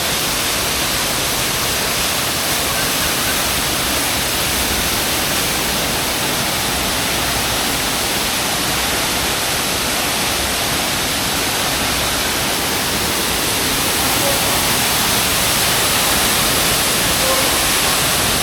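Steady rushing of a waterfall: an even wash of falling water that grows slightly louder in the last few seconds.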